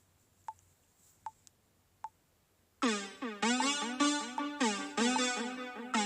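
Three short ticks about 0.8 s apart, then electronic synthesizer music starts a little under three seconds in: a riff of plucked notes, each sliding down in pitch at its start.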